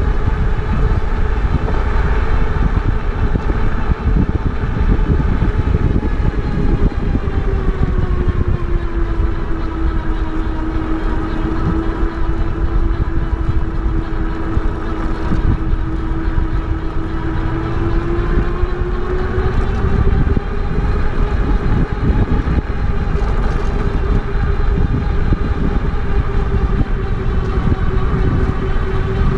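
Electric bike's motor whining steadily under load on a steep uphill climb, its pitch sinking a little midway and rising again, over a steady low rumble.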